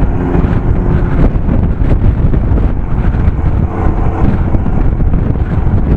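Strong wind buffeting the microphone: a loud, rough rumble that rises and falls constantly in gusts.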